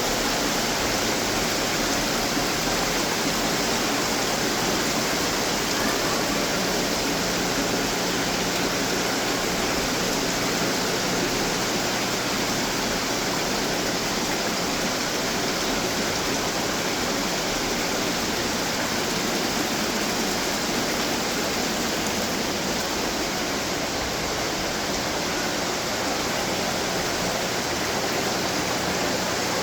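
Running garden water fountains: a steady splash of falling water.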